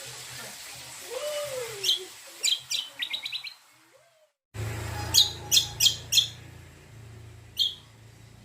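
Cucak kombo songbird calling in loud, sharp high chirps, with a quick rattling run of notes about three seconds in. The sound drops out briefly near the middle, then returns with four chirps in quick succession and a last one near the end.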